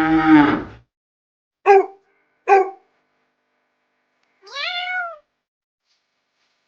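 The tail of a cow's moo, then a dog barking twice, then a cat giving one meow that rises and falls in pitch.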